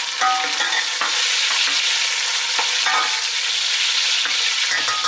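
Freshly added tomato pieces sizzling in hot oil with onions and ginger-garlic paste, while a metal spoon stirs and scrapes the metal pot with a few short clinks.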